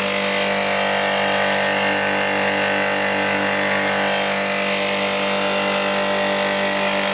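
Refrigeration plant of an ice builder chiller running steadily: a scroll compressor's motor hum with a steady hiss over it and a faint regular pulsing throb.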